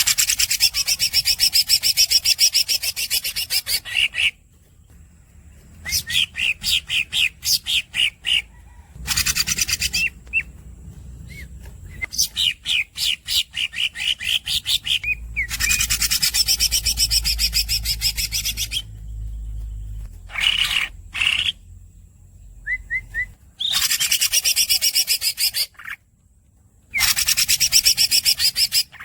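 Green leafbird (cucak ijo) singing in long, fast rolling trills, broken by strings of separate high squeaky chirps and short pauses between phrases.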